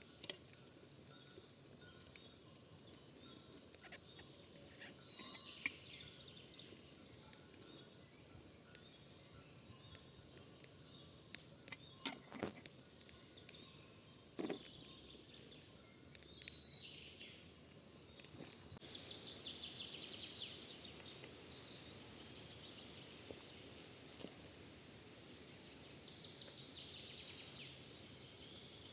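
Birds chirping in quick high calls over a faint steady background, busier and louder from about two-thirds of the way through, with a few light knocks in the middle.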